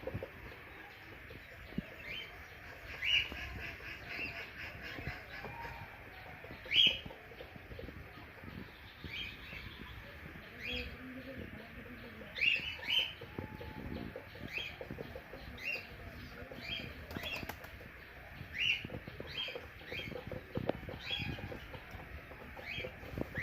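Small birds chirping in short, repeated calls, one every second or so, over a low, uneven rustling.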